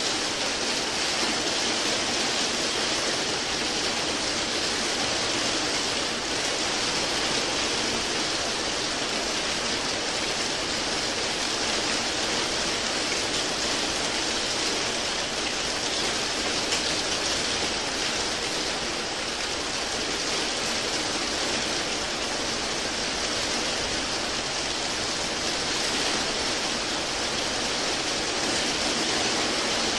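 Steady rain falling: an even, unbroken hiss with no distinct drops or thunder.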